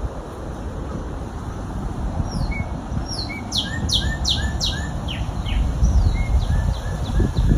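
Wild songbirds calling outdoors over a low wind rumble on the microphone. A run of about five quick, loud, down-sweeping notes comes in the middle, with softer short chirps before and after.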